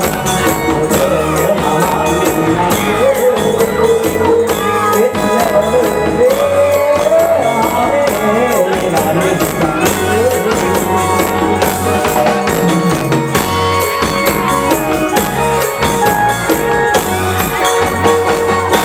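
Thai ramwong folk band music: a gliding melody over a steady drum beat with tambourine-like jingles on every beat.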